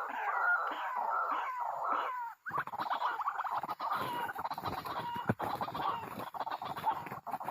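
White-breasted waterhens (ruak-ruak) giving repeated clucking calls, about two or three a second. The calls break off briefly after about two seconds, then carry on more densely, mixed with quick clicks and rustling.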